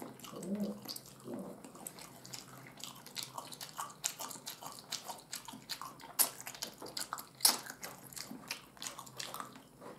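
Close-up open-mouthed chewing of fried sausage and fried eggs: irregular wet smacking clicks, with a couple of louder smacks in the second half.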